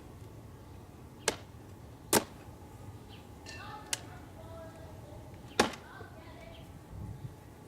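Four sharp knocks of wooden beehive parts being handled, boxes or frames striking wood, spaced irregularly over about five seconds, the second and fourth the loudest.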